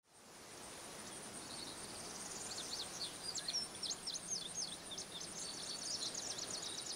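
Birds singing: varied chirps and short whistled glides, ending in a fast run of repeated notes, over a steady high hiss. The sound fades in from silence over the first second.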